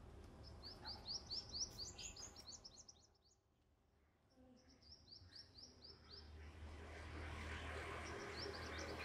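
A small bird singing in quick runs of short, high chirps, three runs in all with a near-silent gap between the first two. A faint low hum and hiss grow in the background during the last third.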